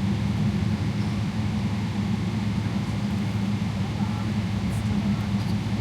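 Steady cabin drone of a Boeing 777-300ER under way, heard from inside the cabin: a low engine hum with airflow noise, unchanging throughout.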